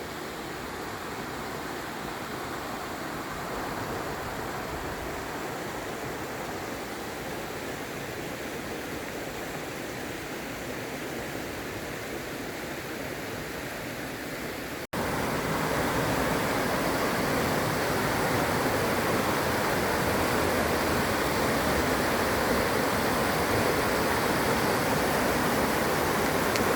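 Steady rush of running and falling water from a mountain creek or waterfall. About halfway through it cuts off for an instant and comes back louder.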